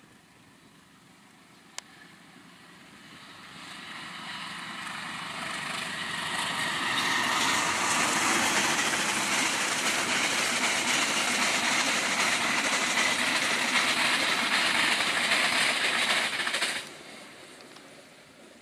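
Passenger train running past on the rails, a steady wide rush of wheel and carriage noise. It swells over several seconds, stays loud for about ten seconds, then cuts off suddenly near the end. A single sharp click sounds about two seconds in.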